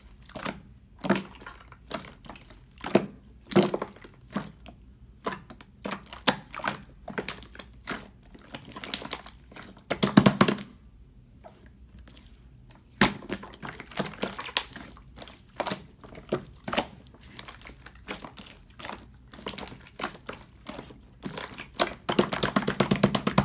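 Yellow jiggly slime being pressed and squeezed by hand: irregular sticky clicks and pops, with two dense runs of crackling, about ten seconds in and near the end.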